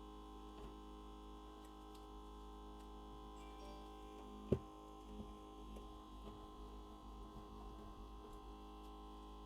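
Steady hum of an LCD screen separator machine running with its vacuum on. One sharp click comes about halfway through, with a few faint ticks around it.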